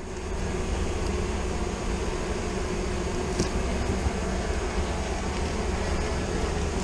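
Many honeybees buzzing around an opened hive, a steady drone with a low rumble under it and a single click about three and a half seconds in.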